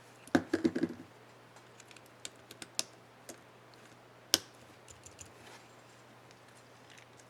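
Plastic laptop keyboard keys on an HP Pavilion dm4 being pressed and clicked: a quick cluster of clicks near the start, scattered lighter ticks, and one sharp loud click about four seconds in.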